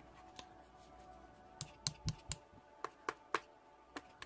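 Slime being pressed and squeezed, giving a string of sharp, crisp clicks and pops, about ten of them, mostly in the second half. Faint background music plays underneath.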